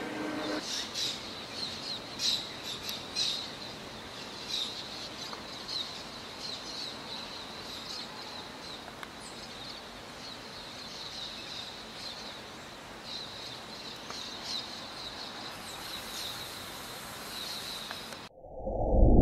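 Small birds chirping repeatedly, short high calls over a steady outdoor background hiss. Near the end the sound cuts off and a loud, low whoosh swells in.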